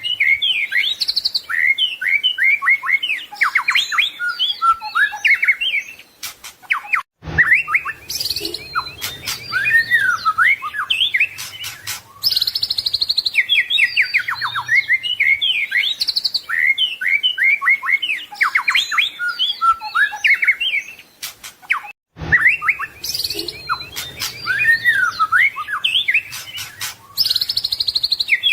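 White-rumped shama (murai batu) singing a rich, varied song of fast trills and whistled phrases mixed with mimicked calls. The song breaks off briefly about seven and twenty-two seconds in, with a soft click each time, and the same stretch of song repeats as a loop.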